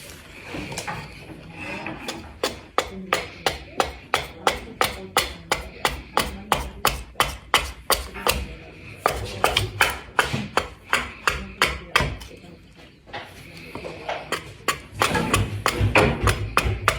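Axe chopping wood in quick, even blows, about three a second, hewing down to a marked line. The blows stop for a couple of seconds about two-thirds of the way through, then start again.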